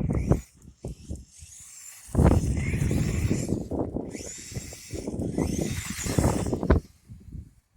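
Electric RC truck speeding over a snowy road, its motor whine rising and falling in pitch as it accelerates and slows, over heavy wind rumble on the microphone.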